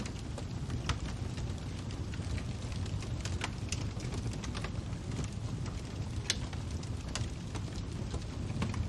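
Fire crackling: a steady low rumble with irregular sharp pops and snaps, one louder snap about six seconds in.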